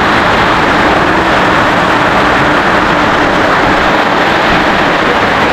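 Heavy rain falling on a roof: a loud, steady hiss with no let-up.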